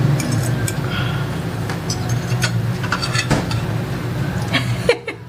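Eating utensils clinking and tapping against food and delivery containers in a string of small, irregular clicks, over a steady low hum.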